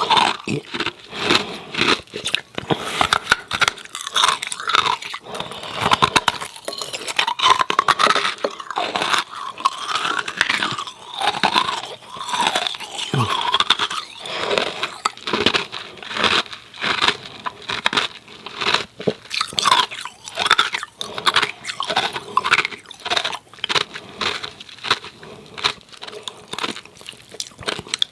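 Hard ice cubes crunched and chewed close to the microphone: a dense, continuous run of sharp cracks and crunches as the ice is bitten and ground between the teeth.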